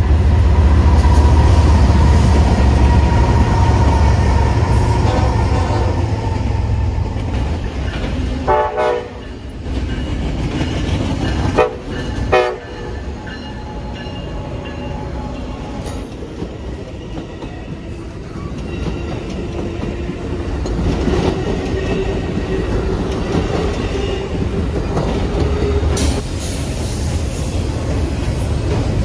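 Passing trains at a station. First BNSF diesel freight locomotives rumble past, then two short train horn blasts sound about 9 and 12 seconds in. After that an Amtrak Pacific Surfliner and a double-stack container train roll by with a steady clatter of wheels on the rails.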